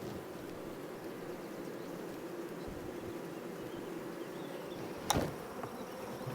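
Honey bees buzzing in a steady hum around an opened hive, with one sharp knock about five seconds in.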